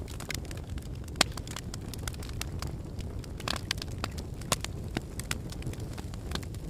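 Wood logs burning in a fireplace: a steady low rumble of flame with irregular sharp crackles and pops, the loudest pop about a second in and another about four and a half seconds in.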